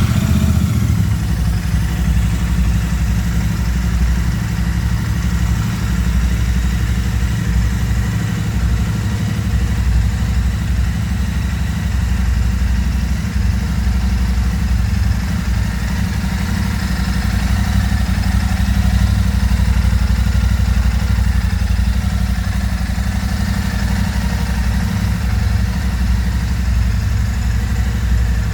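Royal Enfield Super Meteor 650's 648 cc parallel-twin idling steadily through its stock exhaust.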